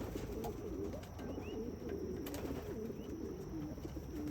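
A flock of racing pigeons cooing together, many overlapping low calls.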